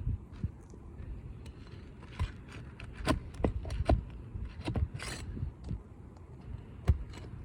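Scattered clicks and knocks and a short scrape about five seconds in, from hand work on asphalt roof shingles while a damaged shingle is worked loose around nails that are too overdriven to pull.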